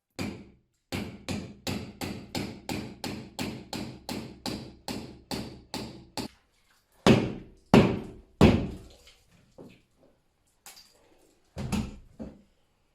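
Plasterboard ceiling being knocked through to make a hole: a quick run of even strokes, about four a second, then three louder knocks and, near the end, two more.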